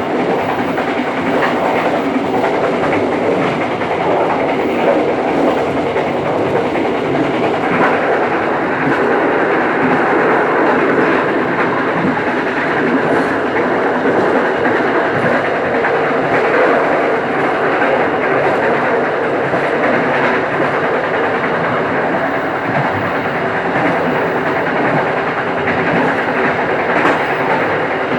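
Local passenger train running along the line: a steady rumble of wheels on rails with clickety-clack over the rail joints.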